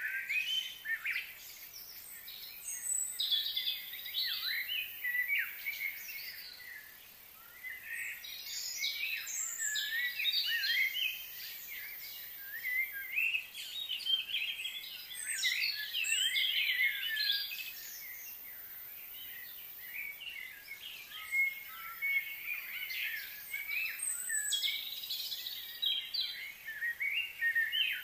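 Birds chirping and singing in busy clusters of short rising and falling notes, over a faint steady high hiss.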